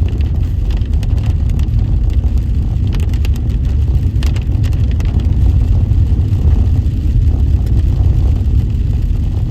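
Subaru Outback driving on a rough, rutted paved road: a steady low rumble of road and engine noise, with scattered light ticks and knocks from the bumpy surface.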